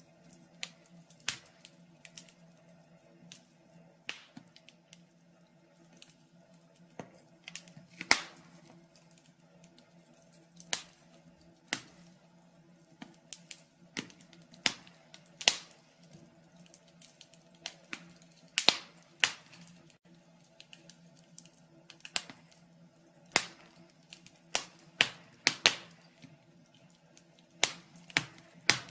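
Wood fire crackling in a fireplace: irregular sharp snaps and pops, some loud and some faint, scattered a few seconds apart, over a faint steady low hum.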